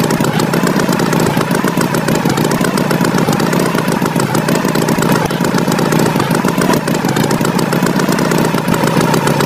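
Tractor engine sound effect running steadily, an even chugging hum.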